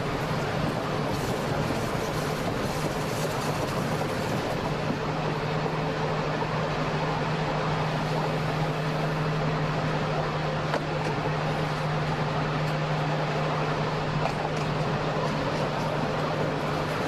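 Electric train running along the track: a steady rolling rail noise with a steady low hum that grows stronger about four seconds in.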